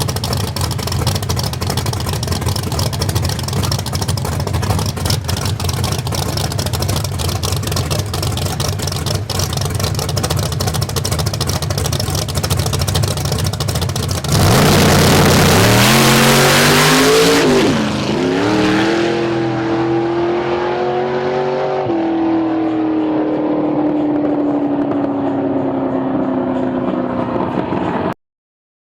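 Fulton 706 all-aluminum big-block V8 drag car running steadily, then going to full throttle about halfway through: the engine note climbs in pitch, dips briefly once and climbs again, then falls steadily as the car slows. The sound cuts off suddenly near the end.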